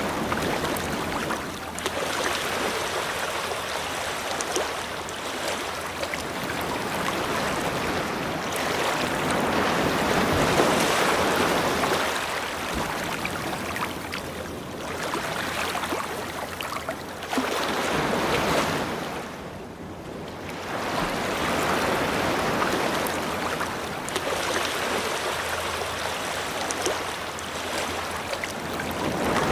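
Ocean surf: waves breaking and washing up a shore, swelling and falling every few seconds, with a brief lull about two-thirds of the way through.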